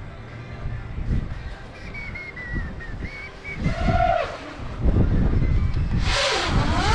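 Small FPV quadcopter's electric motors whining, the pitch swinging up and down with the throttle: a short burst about four seconds in, then louder from about six seconds as the quad comes close. Wind rumbles on the microphone underneath.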